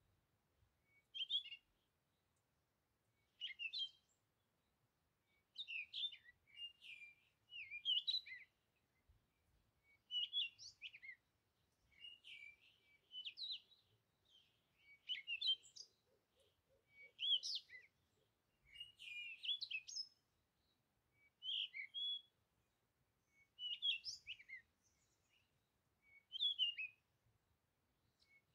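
Bird chirping in short, quick, high-pitched phrases, one every second or two.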